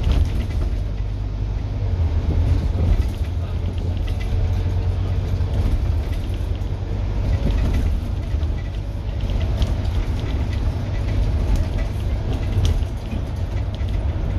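Scania N230UD Enviro400 double-decker bus's five-cylinder diesel engine working hard under way, a steady low drone, with clicks and rattles from the bus body.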